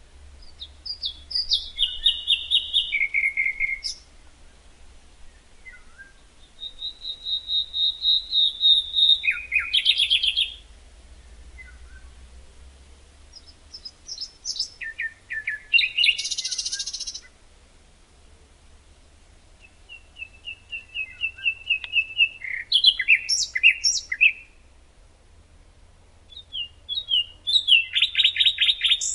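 A songbird singing the same kind of short song over and over: five phrases of rapid trilled notes, each a few seconds long and falling in pitch toward the end, with pauses of a few seconds between them.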